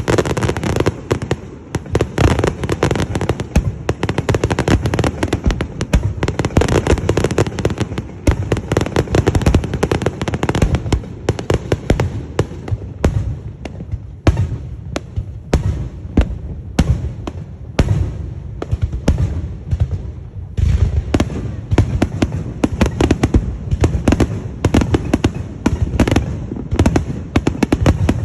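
Festival fireworks display: a dense, rapid barrage of bangs and crackling bursts. The barrage thins to separate cracks about halfway through, then builds back to a thick volley.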